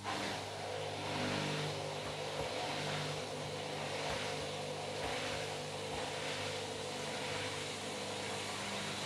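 Washing machine running, with a steady motor hum under a whooshing that swells and fades a little more than once a second.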